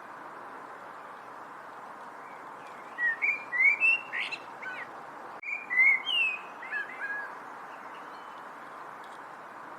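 A songbird singing two quick bursts of short chirping, gliding notes about three and five and a half seconds in, with a brief click between them. A steady hiss lies underneath.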